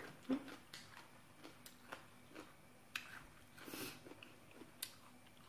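Faint chewing of spicy papaya salad with the mouth closed: soft, scattered mouth clicks and smacks.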